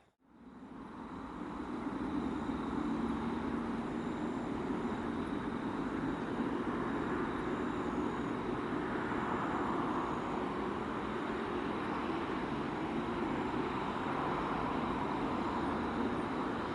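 Steady rain falling, an even, unbroken noise that fades in over the first couple of seconds.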